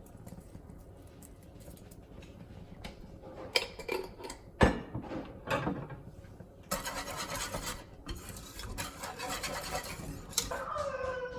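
Kitchen utensils and cookware handled: a few sharp clinks and knocks about four to five seconds in, then two stretches of steady rasping, rubbing noise.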